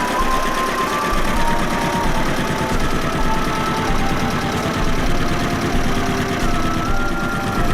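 Engine of a 1961 Kubota T18 vintage tractor running steadily at an even, fast beat.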